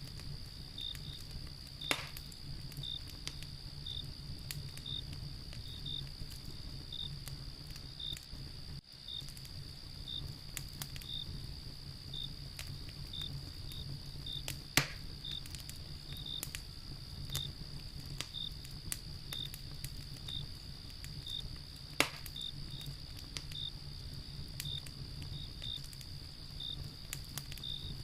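Wood fire crackling with scattered small pops and three louder sharp cracks, near the start, about halfway and about three quarters through, over a low steady rumble. Crickets sound throughout: one steady high trill and another chirping at an even pace.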